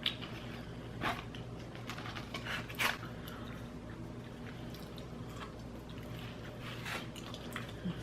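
Close-up sounds of a person chewing food, with a few short wet mouth smacks, about a second in, around three seconds and near seven seconds, over a steady low hum.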